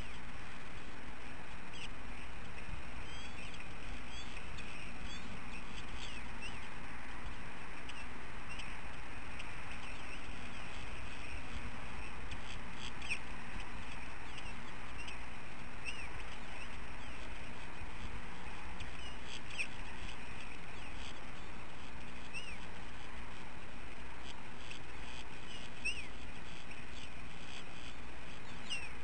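Short high bird chirps scattered irregularly over a steady outdoor background hiss.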